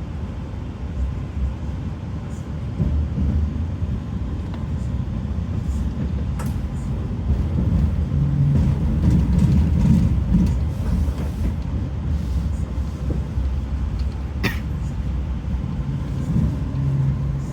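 Passenger train running, heard from on board: a steady low rumble of wheels on the track that swells in the middle. A single sharp click comes near the end.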